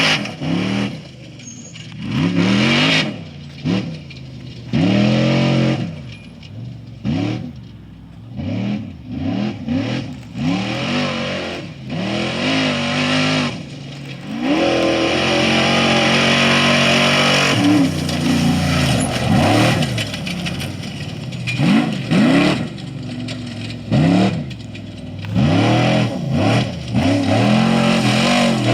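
Off-road race vehicles' engines revving hard, pitch repeatedly rising and falling as they accelerate and lift off, with one long loud stretch about halfway through as a vehicle runs close by.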